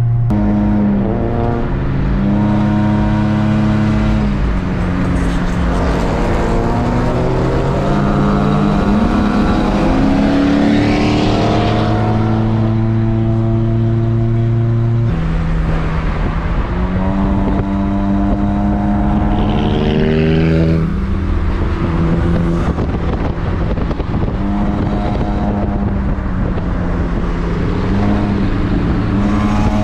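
Car engine heard from inside the cabin while driving, its pitch repeatedly climbing and dropping as the car speeds up and the driver shifts, with a couple of higher rising whines.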